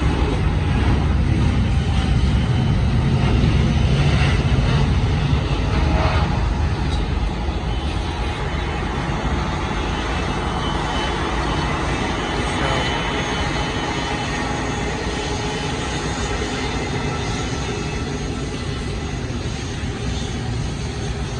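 Boeing 787-10 Dreamliner's Rolls-Royce Trent 1000 turbofans at takeoff power: a steady, heavy jet rumble that is loudest for the first six seconds or so, then eases a little as the airliner climbs away.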